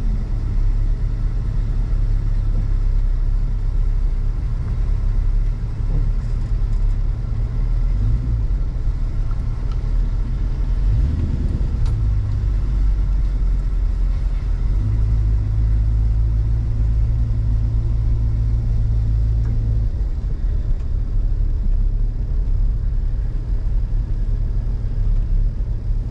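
Car engine running at low speed with a steady low rumble, its note shifting a little now and then.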